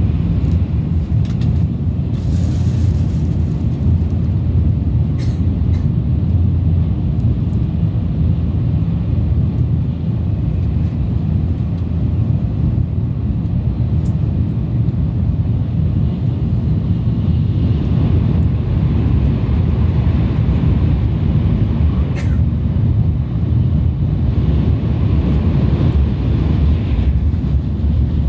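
Steady low rumble of a Shinkansen train running at speed, heard inside the passenger car, with a few faint clicks.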